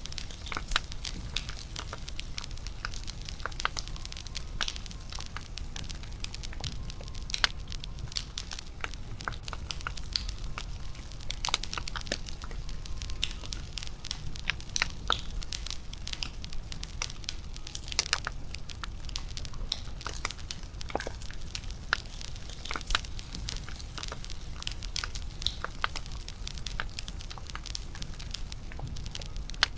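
Wood bonfire crackling: irregular sharp pops and snaps, a few louder than the rest, over a steady low rumble.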